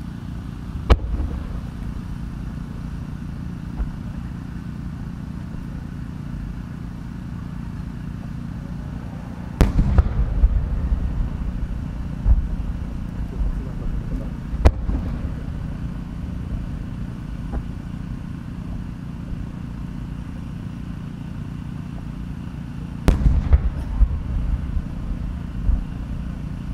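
Large aerial fireworks shells bursting: two big reports, about ten seconds in and again near the end, each followed by a long rolling echo. Single sharp cracks sound about a second in and again near the middle, over a steady low rumble of crowd and surroundings.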